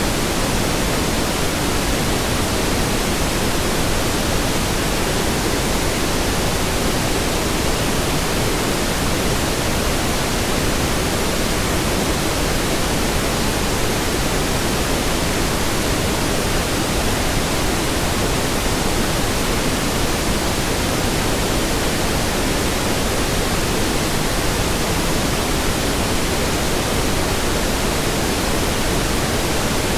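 Steady synthetic pink noise: an even hiss across the whole range, unchanging throughout.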